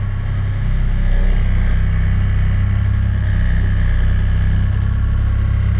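Small kicker outboard motor running steadily at trolling speed, a constant low engine drone.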